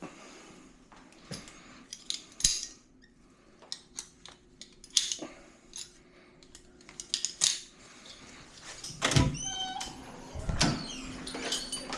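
Scattered metallic clicks and jangles, like gear or keys being handled, with a heavier knock and a short descending squeak about nine seconds in and another knock a little later.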